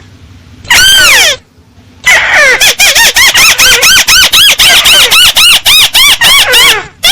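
Crake (Indonesian 'tikusan sawah') calling loudly: one long, falling squealing note about a second in, then from about two seconds a fast run of short down-arching notes, about five a second.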